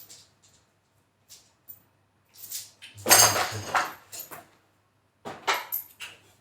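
Metal tools and small hardware clinking and clattering as they are rummaged through. A few light ticks come first, then a louder burst of clatter about halfway in and more clinks near the end.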